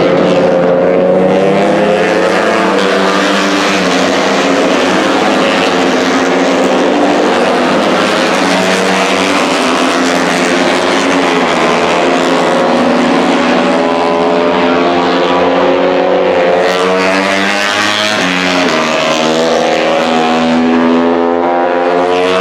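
Racing motorcycles running at high revs on a circuit: a continuous multi-engine wail whose pitch rises and falls as the bikes accelerate, change gear and pass.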